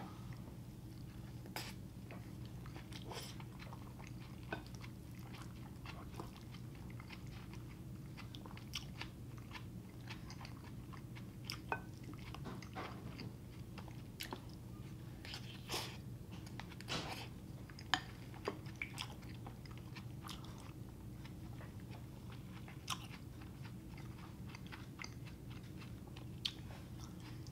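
A person chewing a mouthful of beef and rice up close, with scattered short, sharp clicks over a steady low hum.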